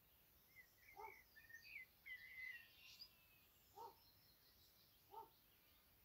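Wild birds: a songbird sings a string of short, high warbling phrases in the first half, while another bird gives a short, lower call three times.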